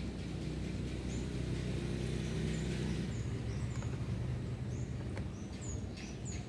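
Outdoor ambience: a steady low rumble with small birds chirping over it in short, high, falling chirps, more often near the end.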